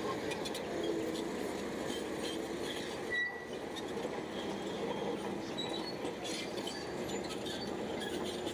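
Crawler bulldozer working: steady machine noise with its tracks squealing and clanking.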